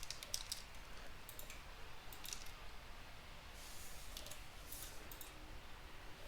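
Faint, irregular clicks of a computer mouse and keys, some in quick little groups.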